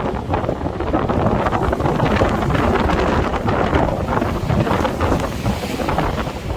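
Strong gusty wind buffeting the microphone, with waves breaking on the shore underneath. The wind noise swells and eases without a break.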